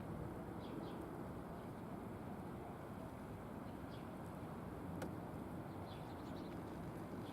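Faint, short bird chirps a few times over a steady low background hum, with a single sharp click about five seconds in.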